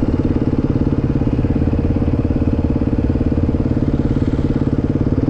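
Beta dirt bike engine running steadily at a constant low speed, with an even pulsing beat.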